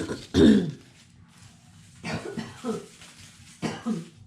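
A woman coughing: one loud cough about half a second in, then a few smaller coughs or throat clearings near the middle and the end. She has a sinus infection.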